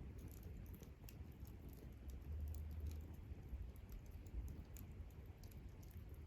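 Wood campfire crackling: scattered small pops and snaps at irregular spacing over a low steady rumble.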